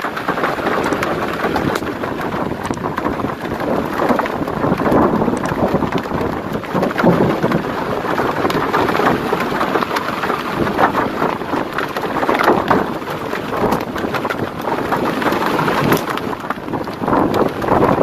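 Heavy downpour in a thunderstorm: a loud, steady rush of rain with scattered sharp impacts, swelling and easing throughout.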